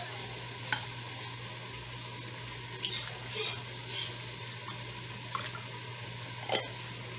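Butter and vegetables sizzling as they sauté in a pot, with a utensil stirring and clinking lightly a few times. A steady low hum runs underneath.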